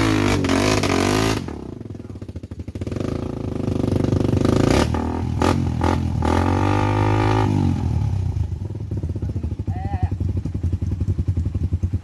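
Suzuki Satria FU motorcycle engine revving, rising and falling in pitch a couple of times, then settling into a steady pulsing idle for the last few seconds.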